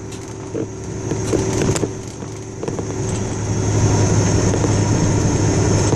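Car driving on a bumpy road, heard from inside: a steady low rumble of engine and tyres that grows louder about halfway through, with a few sharp knocks and rattles from the bumps.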